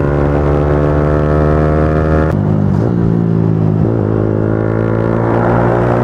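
Motorcycle engine running steadily while riding, its pitch holding even, with a sudden shift in tone a little over two seconds in.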